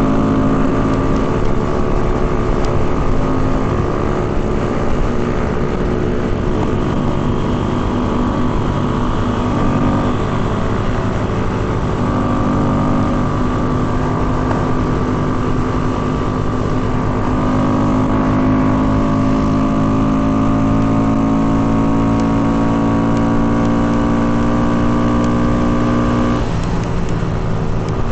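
Small mini-motorcycle engines running under way, their pitch holding steady and then shifting up and down several times with throttle and gear changes, dipping briefly near the end.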